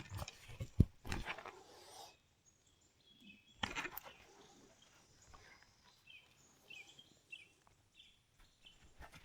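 A few knocks and one sharp click of handling noise in the first two seconds. After that, faint short high chirps from wildlife repeat at low level, broken by a single brief knock about four seconds in.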